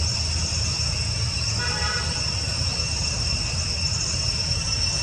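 A steady high-pitched insect drone over a constant low rumble, with a brief high pitched call about two seconds in.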